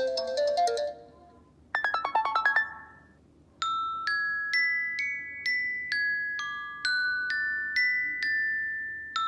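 iPhone iOS 7 ringtones and alert tones played back one after another: a tune cuts off about a second in, a short quick run of chiming notes follows, and then a bell-like ringtone starts with a struck note about every half second.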